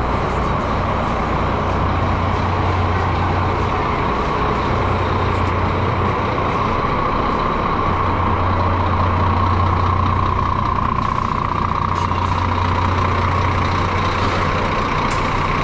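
Newly fitted 13-litre Scania DC13 PDE inline-six diesel running steadily at idle in a truck, on its first run after the engine swap.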